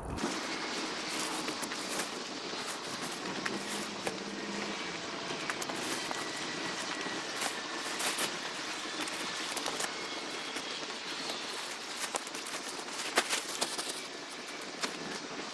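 Wood fire crackling: a steady hiss with many small, scattered pops.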